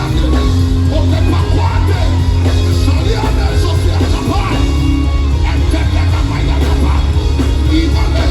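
Live worship music played loudly by a band, with sustained heavy bass notes and voices singing and calling out over it.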